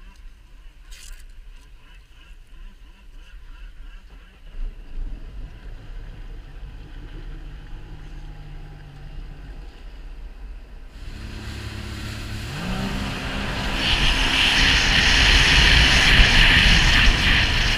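Sea-Doo Wake 215 jet ski engine running low, then throttled up about eleven seconds in, its pitch rising as the craft accelerates, ending in a loud, steady rushing hiss.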